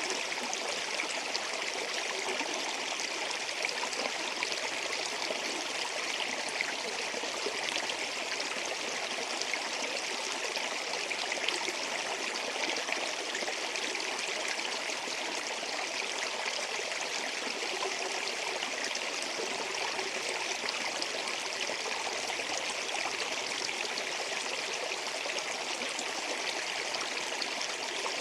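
Running water, a stream flowing steadily over stones with a continuous babbling trickle.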